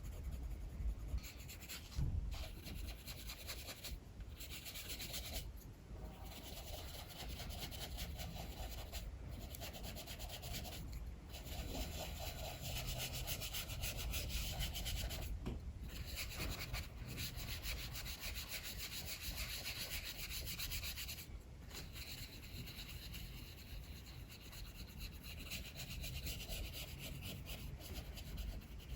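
Drawing strokes rubbing on paper, long continuous shading passes broken by brief pauses, over a low rumble of strong wind.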